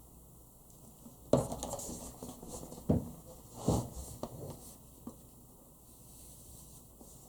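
A few short knocks and rustles in a quiet small room: the loudest about a second and a half in, two more around three and four seconds in, and a couple of fainter ones after.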